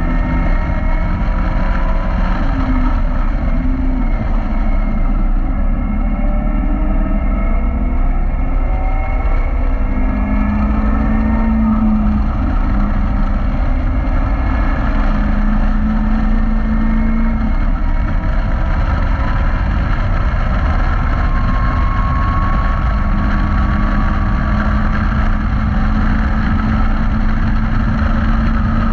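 Caterham Roadsport's engine running hard on track, rising in pitch several times as it pulls through the gears, heard from the open cockpit over a heavy low wind rumble.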